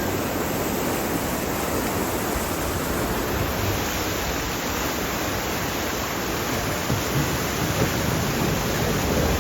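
Steady, even rushing noise from a log flume ride in motion.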